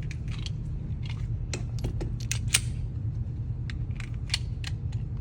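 Irregular sharp clicks and cracks at a pistol range, a dozen or so, the loudest about two and a half seconds in, over a steady low rumble.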